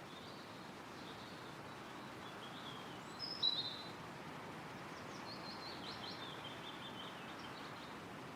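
Wind rustling through trees with birdsong: faint high chirps early on, a short louder call about three and a half seconds in, and a rapid run of notes between about five and seven seconds.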